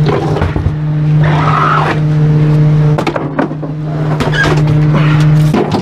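Trash truck running with a steady low hum, broken by several sharp knocks and clanks; the hum cuts off about five and a half seconds in.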